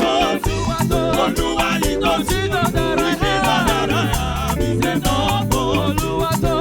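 Live gospel band playing an up-tempo praise song, with a steady, busy drum beat under bass and a wavering melody line.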